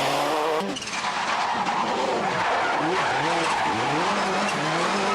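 Subaru Impreza GC8 rally car's flat-four boxer engine being driven hard. Its pitch rises and falls several times in quick succession, with a brief drop in level about half a second in as the throttle lifts, over a steady rushing noise.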